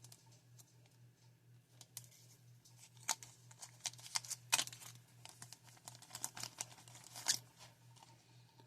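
Plastic bag rustling and crinkling as it is opened and rummaged through, with scattered light clicks and taps of plastic parts. The louder crackles come about three, four and a half and seven seconds in, over a faint steady electrical hum.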